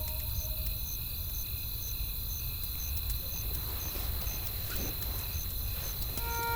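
Cricket chirping steadily about twice a second over a low rumble, with faint scattered crackling clicks of a wood fire.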